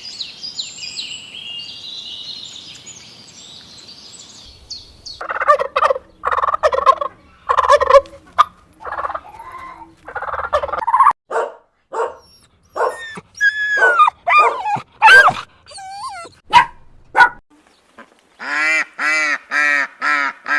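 A series of bird calls: high chirping for the first few seconds, then loud separate calls with many overtones, some gliding in pitch, then a quick run of about seven harsh calls near the end.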